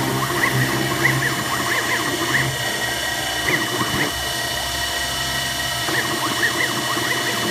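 CNC-converted X2 mini mill running a program: a steady motor hum with short rising whines from the stepper-driven axes starting and stopping, which come in irregular clusters and drop out for a moment about halfway through.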